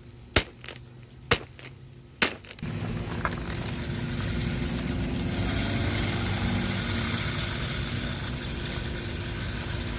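Raw nuts being crunched up: a few sharp cracks about a second apart, then from about two and a half seconds in a steady rushing noise takes over.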